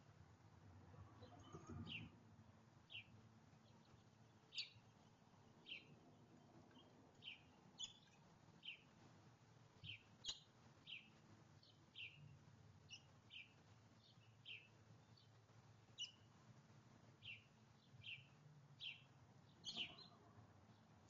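Faint, repeated short chirps from a small bird, about one a second, each a quick falling note.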